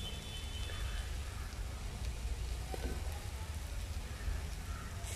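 Onion-tomato masala sizzling softly in a pot on the stove, with a low steady hum underneath.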